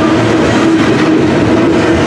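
CSX double-stack intermodal freight train passing close by: steady, loud rumble and rattle of its container well cars' wheels on the rails, with a steady tone running under it that fades in and out.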